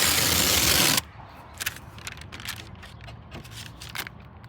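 Aerosol spray paint can spraying in one loud, steady hiss that cuts off suddenly about a second in, followed by faint scattered clicks and crackles.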